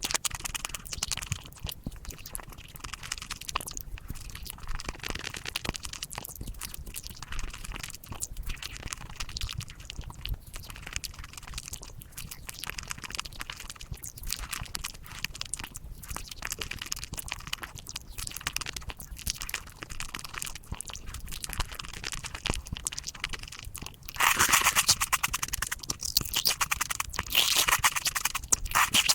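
Sped-up mukbang eating sounds: rapid crunching, biting and chewing of chocolate, played at five times speed. The sounds get louder and sharper near the end.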